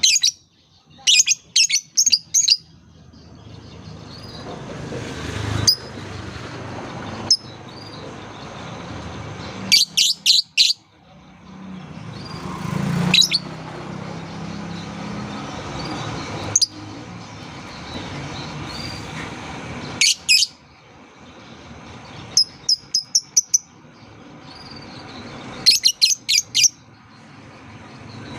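Lovebird calling in short clusters of rapid, sharp high chirps, six or so bursts separated by pauses. Between the bursts there is a steady background hiss and rumble that swells and fades.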